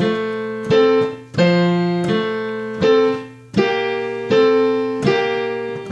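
Piano played slowly: single notes and two-note chords from a simple beginner melody, struck about once every three quarters of a second, each ringing and fading before the next.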